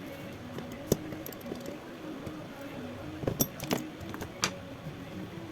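Light metallic clicks and taps of small repair tools against a phone during disassembly: one about a second in and a quick cluster a little past the middle, over a faint steady background hum.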